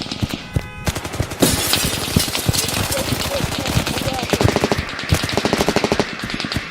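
Battle ambience of dense gunfire: scattered rifle shots throughout, with two rapid bursts of automatic fire in the second half.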